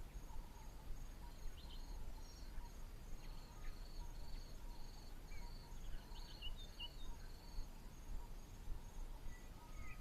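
Faint outdoor bush ambience: an insect chirping in a steady, even rhythm, just under two chirps a second, with a few short, high bird notes scattered through it.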